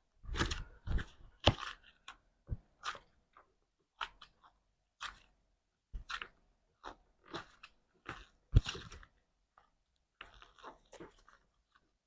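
Slime being squeezed and kneaded by hand, giving irregular crisp crackling and squelching pops, a few each second.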